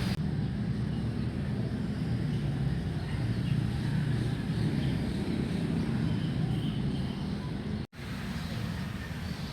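Steady low rumble of city traffic in the background, with a few faint bird chirps over it. The sound drops out for an instant about eight seconds in.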